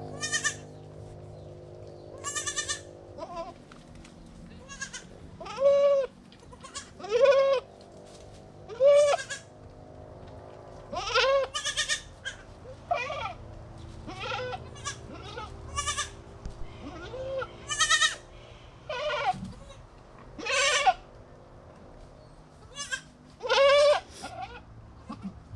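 Goats bleating in short, high calls that rise and fall in pitch, one every second or two and at uneven intervals, typical of newborn kids calling with their mother near.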